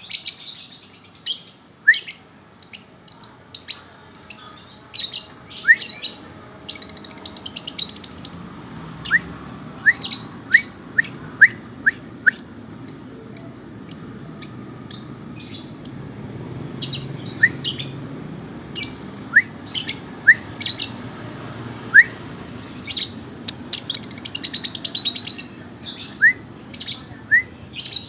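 Songbird singing against a rival bird: loud, sharp chirps repeated one to two times a second, broken twice by fast rattling trills, with short rising whistles mixed in.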